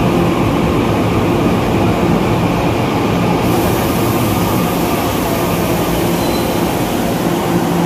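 Electric multiple-unit express train pulling in along the platform and slowing nearly to a stop, with a steady rumble and hum. A higher hiss joins in about three and a half seconds in.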